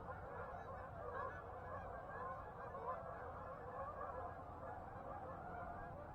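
Large flock of geese honking, many faint calls overlapping into a steady chatter.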